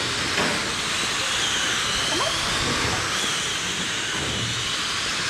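Electric RC dirt oval cars racing around the track: the whine of their 21.5-turn brushless motors rises and falls over a steady hiss.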